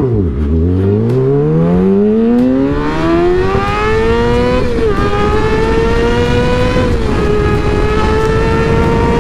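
Motorcycle engine launching from a stop, with revs climbing steadily for about four and a half seconds. The revs drop with an upshift and climb again, then dip with a second upshift about seven seconds in. Wind rush runs underneath.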